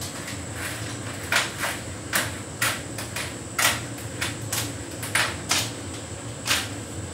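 Hotpoint heat pump tumble dryer running: a steady low hum, with irregular soft thuds about once or twice a second as the laundry tumbles in the drum.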